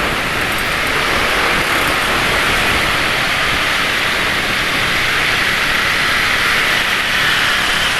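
Road traffic with motorcycle engines running, under a steady rushing noise; a low engine hum comes in about halfway through.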